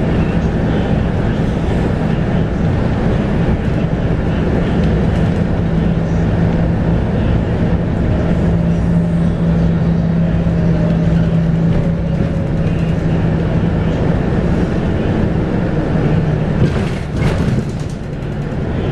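Scania K230UB bus heard from on board: its 8.9-litre five-cylinder Scania DC9 diesel runs with a steady drone under way. Near the end there is a short hiss, and the engine note drops lower.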